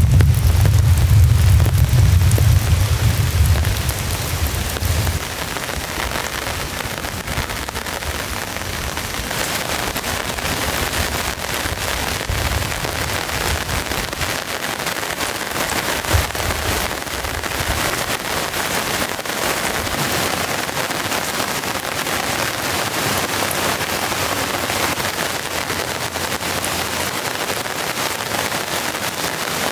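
Steady rain falling hard in a rainstorm. A low rumble of thunder dies away over the first few seconds, and there is one sharper tap about halfway through.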